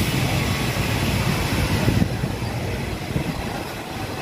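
Thai railway passenger coaches rolling past along the platform: a steady rumble of steel wheels on the rails.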